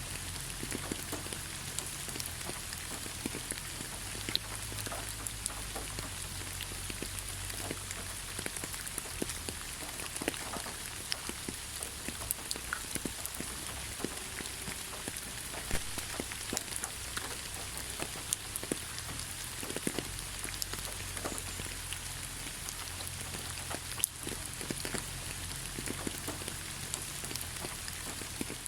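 Steady rain, with many separate drops striking a hard surface as sharp ticks over a low rumble.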